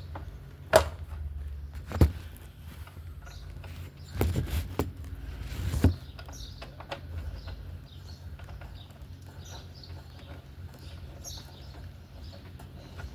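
A few sharp knocks and clatters of handling in the first half, then birds chirping over a low steady hum.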